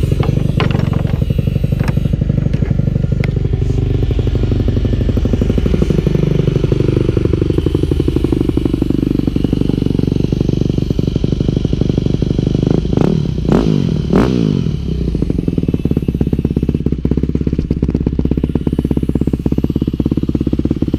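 Yamaha WR250F's single-cylinder four-stroke engine running on a trail ride, with two quick revs up and back down a little past the middle.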